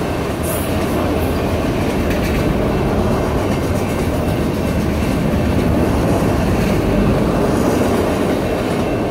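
Long freight train of enclosed autorack cars rolling past close by: steady wheel-on-rail noise from the passing cars.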